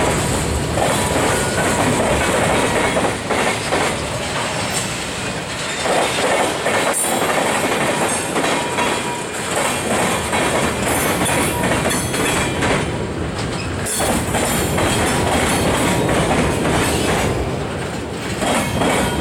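Freight train rolling past, its cars' wheels clacking steadily over the track, with a faint wheel squeal now and then.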